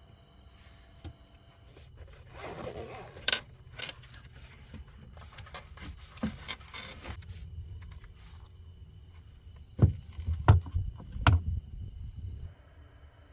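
Objects being handled: rustling and scraping, then a few sharp knocks near the end, over a low rumble.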